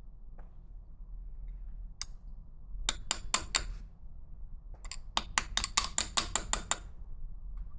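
Light metal-on-metal tapping with a bright ring: one tap about two seconds in, a quick run of four, then a longer run of about ten taps at roughly six a second.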